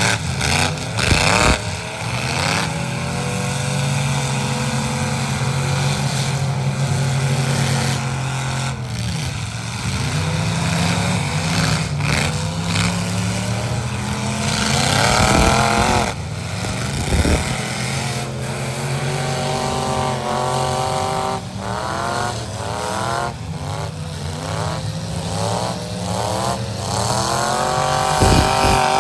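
Several pickup trucks and SUVs in a demolition derby heat, engines revving hard up and down and running loud. Sharp thuds of collisions come now and then, several close together toward the last third.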